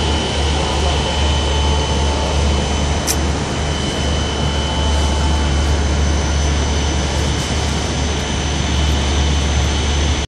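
Train noise: a loud, steady mechanical drone with a constant high-pitched whine over it, cutting off abruptly near the end.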